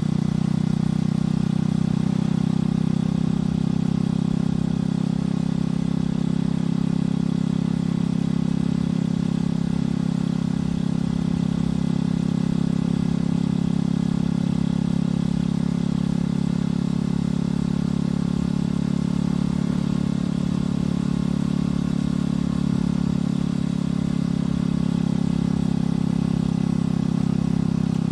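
Motorcycle engine and exhaust running at a steady speed while riding, the engine note holding nearly constant.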